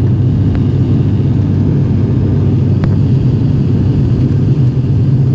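Steady, loud drone of an ATR 72-600's twin turboprop engines and propellers heard inside the passenger cabin during the climb after takeoff, a deep even hum with no change in pitch.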